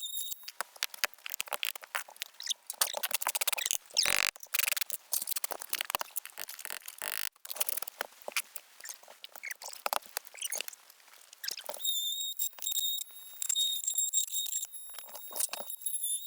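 Dense crackling, rustling and scraping of asphalt shingles and the solar tube's flashing being handled and slid into place on the roof, with a faint high steady whine at the start and again near the end.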